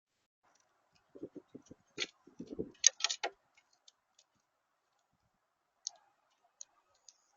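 Birds at a feeder pecking and tapping: a quick run of soft knocks and sharp clicks about a second in, then a few scattered clicks near the end.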